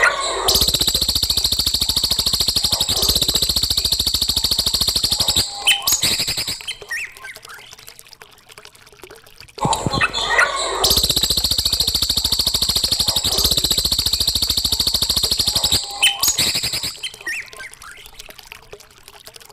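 Recorded songbird song played as a training track for caged birds: a long, very rapid trill lasting about five seconds, then a few short chirps and a pause. The same phrase repeats about halfway through.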